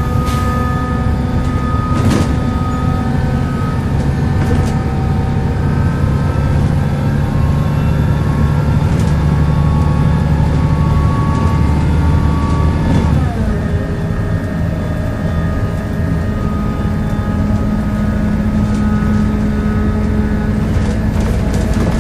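Volvo B7L single-deck bus heard from on board, its engine and drivetrain running under way with the groaning tone this bus is known for. About 13 seconds in the pitch drops suddenly, as at a gear change, then holds steady again.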